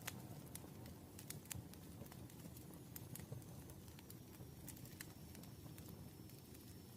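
Campfire crackling: irregular sharp pops and snaps over a soft, steady low rumble of burning wood.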